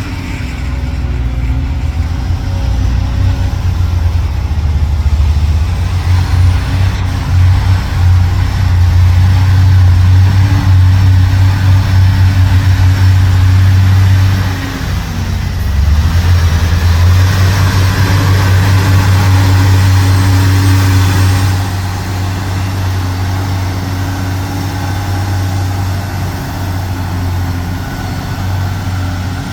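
Heavy dump truck's diesel engine running with a deep steady drone, working harder through the middle, dropping briefly about halfway, then easing to a lower level for the last third.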